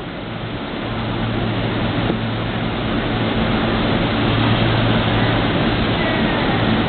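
Meitetsu 7000 series Panorama Car electric train departing, its running noise and motor hum steadily growing louder as it gets under way.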